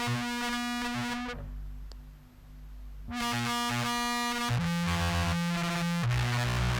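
Contrabass clarinet played through a fuzz pedal chain, a Dream Machine into a Jackson Audio Modular Fuzz's Goat's Head module: sustained, heavily distorted notes that change pitch every second or so. About a second and a half in the buzz thins to a single low note, then the full distorted tone comes back.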